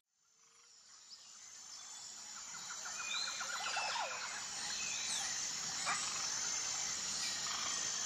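Outdoor ambience fading in from silence, with birds chirping in short whistled notes and one quick trill.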